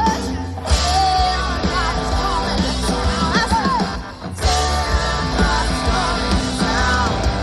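Live pop-rock band playing with a singer, the vocal line sliding up and down over steady bass and drums, with a brief break about four seconds in.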